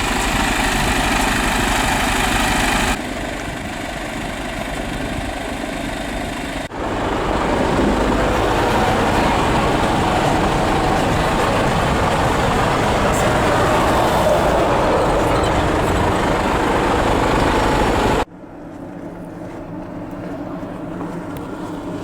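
Truck engine running, heard as steady, loud mechanical noise across several clips cut together, with abrupt changes about 3, 7 and 18 seconds in.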